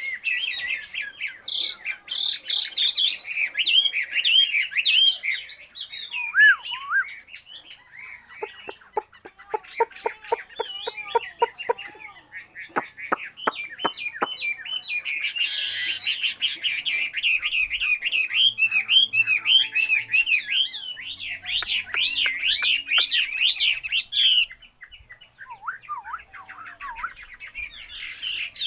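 A kept songbird singing a long, varied warbling song of quick whistled notes. Near the middle it breaks into a fast run of lower, buzzy rattling notes. It pauses briefly about 24 seconds in, then starts again.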